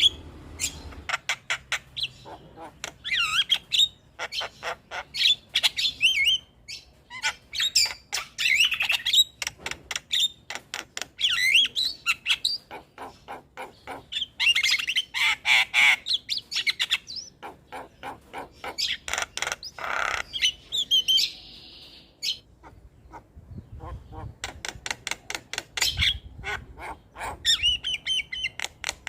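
Javan myna (jalak kebo) in full song: fast runs of clicks and rattles mixed with whistles and harsh squawks, in bursts with short pauses.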